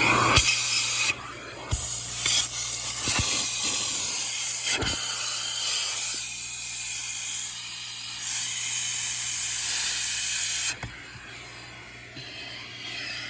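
Car wash vacuum hose sucking air through its nozzle: a loud steady hiss over a low motor hum. The hiss drops away briefly when the nozzle is pressed against a surface, and there are a few sharp knocks of the nozzle against the car's interior.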